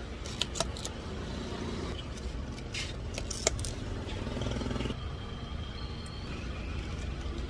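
Plastic cup lids snapping onto drink cups: a few short sharp clicks, the loudest about three and a half seconds in, over a steady low rumble of street traffic.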